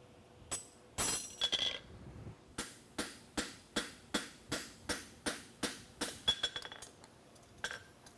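Farrier's hammer striking steel on the anvil while forging a horseshoe. A few loud blows, some with a brief metallic ring, are followed by a steady run of about a dozen even strikes at roughly two and a half a second, then two last taps near the end.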